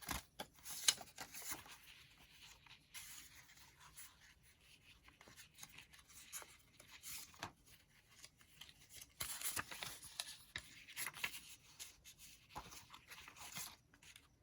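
Faint rustling and scraping of paper and card, with a few light taps, as cards are handled and slid into a paper pocket of a handmade journal.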